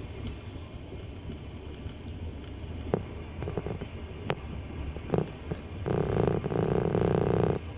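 Wheels of a double-deck passenger train running on rails: a steady low rumble with scattered sharp clicks, growing louder and denser from about six seconds in until shortly before the end.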